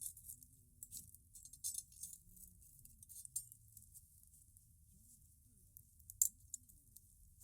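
Wood bonfire crackling, with irregular sharp crackles and pops, one loudest about six seconds in. The sound is thin and hissy because an equalizer has cut out its middle range.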